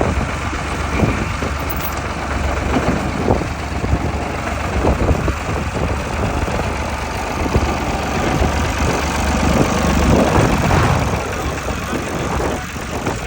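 Old 1929 Plymouth engine running at idle, a continuous, uneven engine beat.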